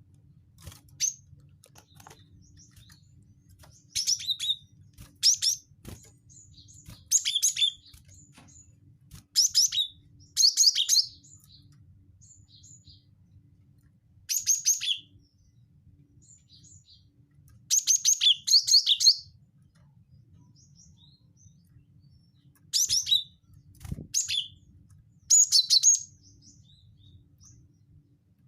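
Cinereous tit (gelatik batu) calling in short bursts of rapid, high chirps, repeated in irregular groups a few seconds apart.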